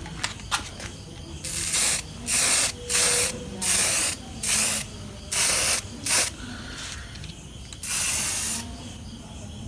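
Aerosol primer spray can spraying in eight short bursts of hiss, each about half a second long, with the last one coming after a longer pause. The primer is being dabbed onto bare-metal patches of a motorcycle frame.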